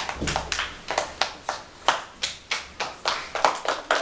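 A small group of schoolchildren clapping in scattered, uneven applause, several claps a second.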